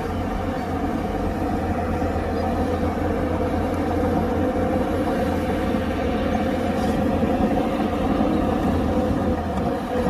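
Heavy diesel engine of earthmoving machinery (bulldozer or dump truck) running steadily under load, with a constant low drone.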